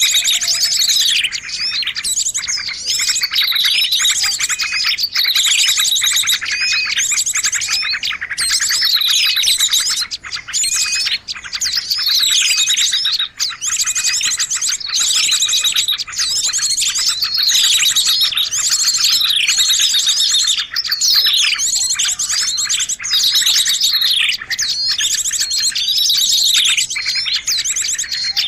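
A dense chorus of small birds chirping and twittering, with a falling call repeating about every second and a half over fast, continuous trills. It is a bird-lure (pikat) recording, played to draw birds in.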